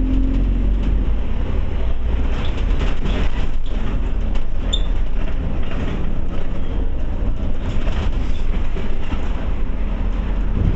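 Scania OmniCity single-decker bus heard from inside the cabin while driving: steady engine and road rumble, with scattered clicks and rattles from the body.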